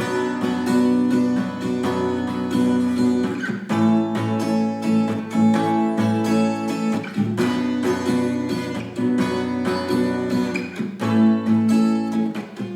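Acoustic guitar strummed in F-sharp minor, downstrokes with the index fingernail and upstrokes with the pad, the strings left ringing without muting. The chord changes about every three and a half seconds.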